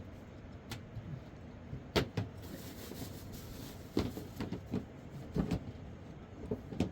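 Scattered knocks and clicks, about eight at uneven intervals, over a steady low hiss.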